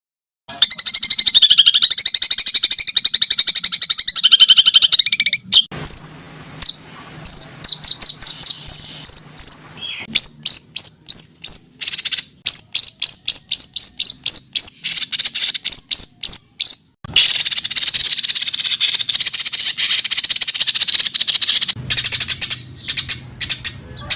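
Recorded small songbird calls spliced together: a dense, buzzing high trill, then a long run of sharp, high chirps repeated about three to four a second, then the buzzing trill again.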